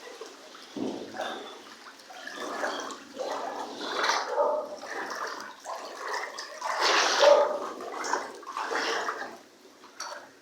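Floodwater rushing and gurgling, swelling and falling in uneven surges.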